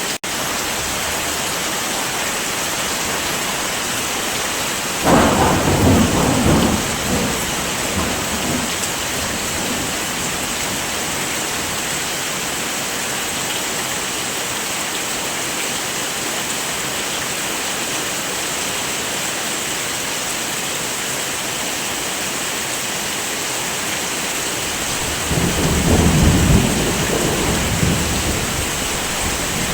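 Steady heavy rain with two low rumbles of thunder, one about five seconds in and one near the end, each lasting a couple of seconds.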